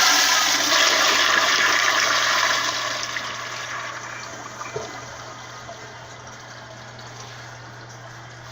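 Gerber Ultra Flush pressure-assisted toilet flushing: a loud rush of water that stays strong for about two and a half seconds, then dies away into a quieter steady hiss.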